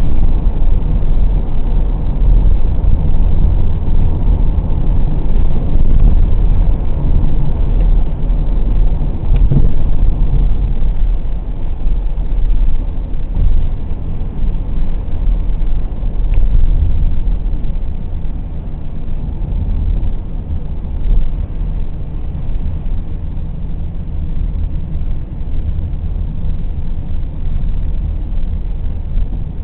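Car being driven, a continuous engine and road rumble heavy in the low end, easing a little in the second half.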